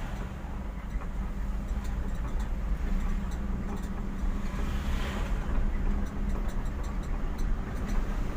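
Car on the move: steady engine hum and road rumble, with scattered small clicks and rattles and a brief swell in the noise about five seconds in.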